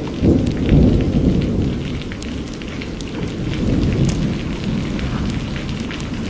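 Rain falling with a low rumble of thunder that swells in the first second or so and again around four seconds, many separate drops ticking over it. The level dips suddenly at the very end.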